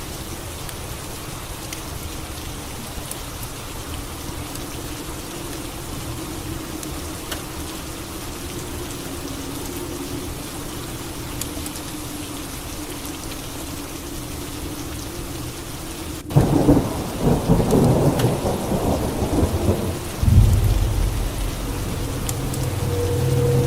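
Steady rain falling, then a sudden loud thunderclap about two-thirds of the way in, followed a few seconds later by a second deep, rolling rumble of thunder.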